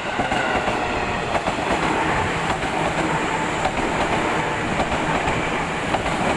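A train passing close by: the steady rumble and rattle of its wheels on the rails, with scattered sharp clicks.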